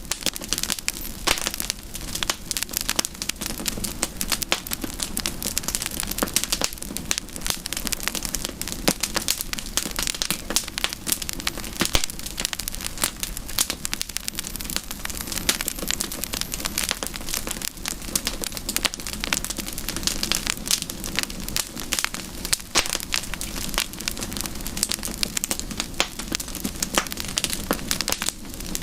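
Wood fire burning, with dense, irregular crackling and popping over a steady low hiss.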